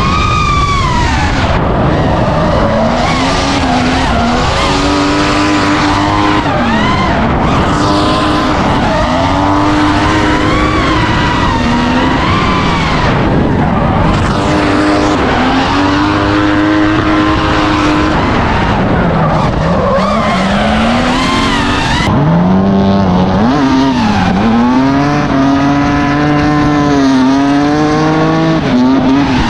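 Car engines revving hard, rising and falling in pitch every few seconds, with tyres skidding and squealing as the cars are driven sideways.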